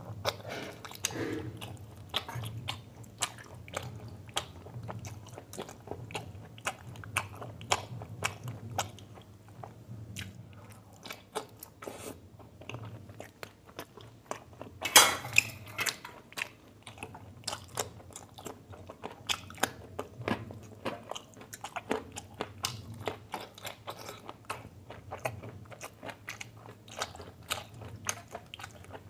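A person eating mutton curry with paratha close to the microphone: continuous chewing and biting with wet clicks, and one louder crunch about halfway through.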